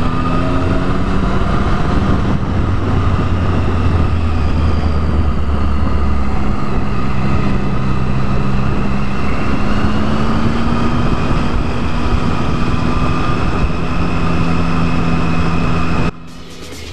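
Triumph Tiger 1050's inline-three engine running steadily under way, with heavy wind and road noise; its pitch rises and falls gently as the bike rides through bends. Near the end the sound cuts off abruptly and electronic music starts.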